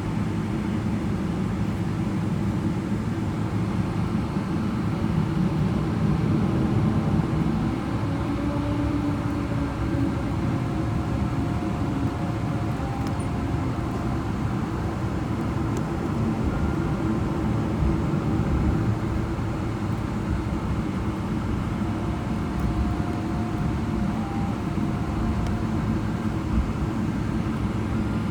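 Cabin noise of a Boeing 777-300ER taxiing: its GE90 engines at low taxi thrust and the rolling airframe give a steady, dense low rumble, with faint whining tones that come and go.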